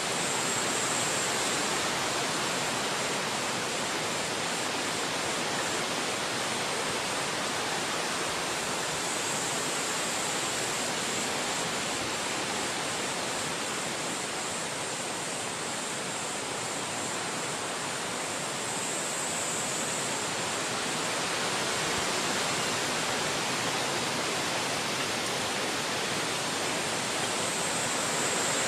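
Steady rushing of wind through forest trees, an even full hiss with hardly any change in loudness, and a faint higher hiss that swells briefly about every nine seconds.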